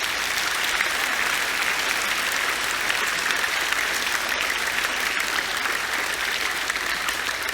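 A hall audience applauding steadily, many hands clapping at once, in response to a call for a round of applause.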